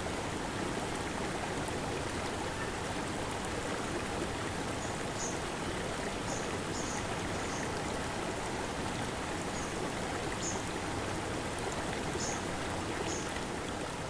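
Small forest stream running steadily over boulders, an even rush of flowing water. Short, faint high chirps sound over it about once a second from roughly five seconds in.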